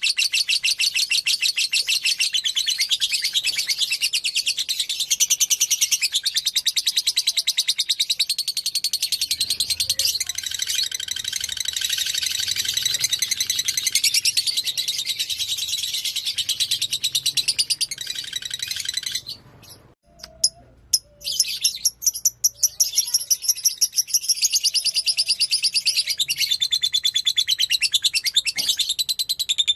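A fighter lovebird singing a long, fast, unbroken chattering trill, which stops for about two seconds roughly two-thirds of the way through and then starts again.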